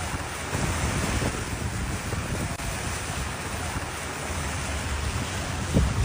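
Steady rushing of water in a heavy rainstorm, with wind rumbling on the microphone and a brief low thump near the end.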